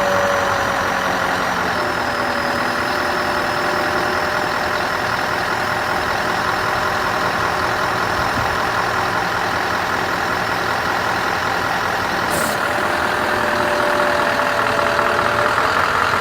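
Scania R500 hooklift truck's V8 diesel engine running steadily, with a short hiss of air about twelve seconds in.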